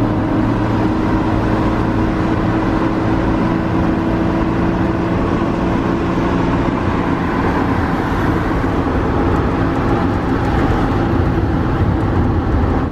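A car engine running steadily at a constant speed with a low hum and a hiss of road or traffic noise, then stopping abruptly.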